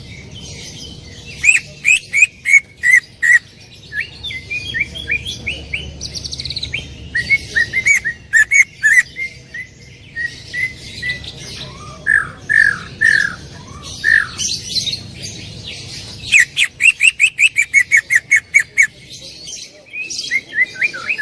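Green leafbird (cucak ijo) singing loudly in bursts of sharp, rapidly repeated notes. A few swooping, slurred notes come in the middle, and a fast even run of short notes follows about two-thirds through.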